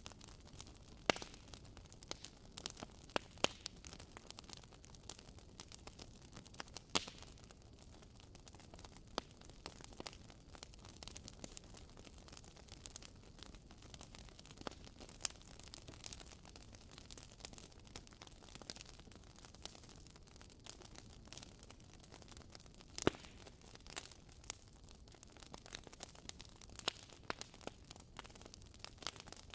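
Wood fire burning in a fireplace: soft steady hiss of the flames with irregular crackles and pops from the logs, a few sharper snaps standing out.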